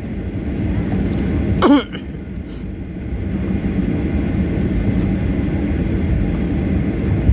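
Steady low rumble of airliner jet engines as planes taxi. A brief falling vocal sound comes in under two seconds in.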